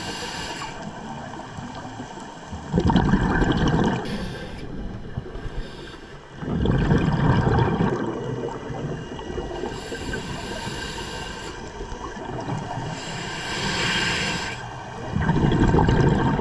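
Scuba diver breathing through a regulator underwater: hissing inhalations alternating with louder, low bubbling rushes of exhaled air, about three of each.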